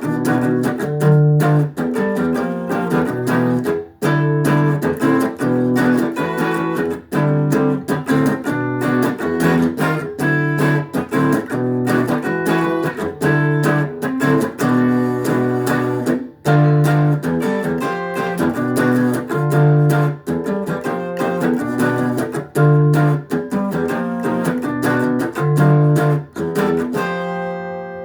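Guitar playing an instrumental piece of plucked notes and chords, ending near the end on a final chord left to ring out.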